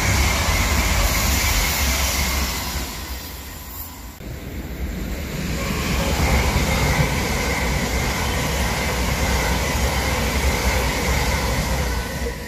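High-speed passenger trains passing through a station at speed: the rush and rumble of wheels on rail, with a heavy low rumble throughout. The sound fades to a dip about four seconds in, then a second train's pass comes in loud and stays steady.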